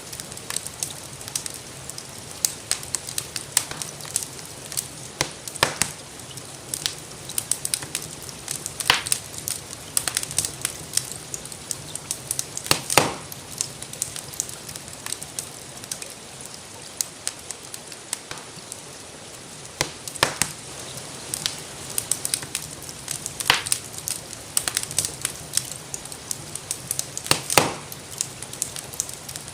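Wood fire crackling in a fireplace, with frequent small snaps and several louder pops spread through, over a steady hiss of gentle rain.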